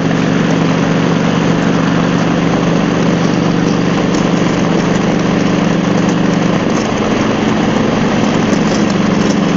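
Harley-Davidson Road Glide's V-twin engine running steadily at highway speed, under a steady rush of wind and road noise on the helmet-mounted microphone.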